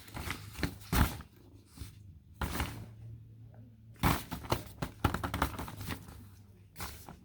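A few irregular thumps and rustles, the loudest about a second in and about four seconds in.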